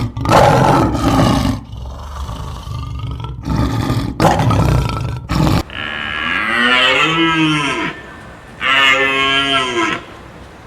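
Cattle mooing: two long, drawn-out calls in the second half, each rising and falling in pitch. Before them a loud, rough, noisy stretch with a deep rumble cuts off suddenly about five and a half seconds in.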